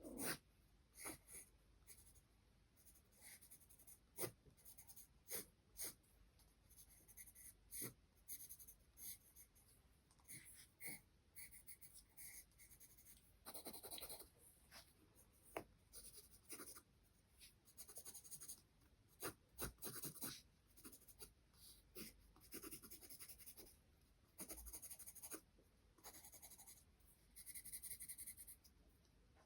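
Charcoal scratching on paper in short, irregular strokes with small taps between them, quiet throughout.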